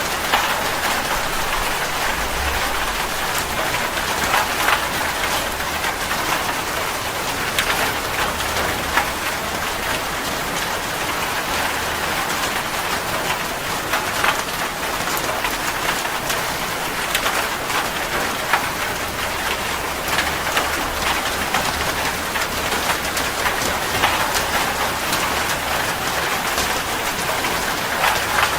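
Steady rain falling, an even hiss with many sharp individual drop impacts scattered through it.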